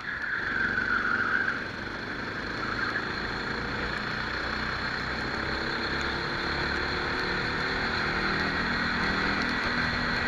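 Rental kart engine running, recorded onboard, with wind and rushing noise on the microphone. The engine's pitch climbs steadily through the second half as the kart accelerates.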